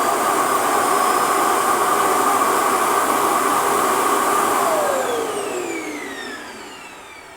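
Ultenic T10 Elite self-emptying dock's suction motor running steadily as it empties the robot vacuum's dustbin into the dock bag, then spinning down with a falling whine about five seconds in.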